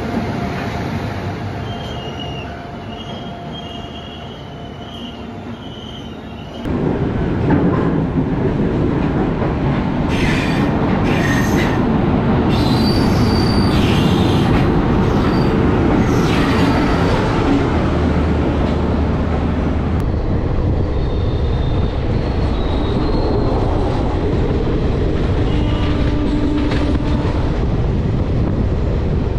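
Passenger train running, heard from the open doorway of a moving coach: a steady rumble of wheels on rail, quieter at first and much louder from about seven seconds in. Thin, high wheel squeals come over several seconds a little before the middle.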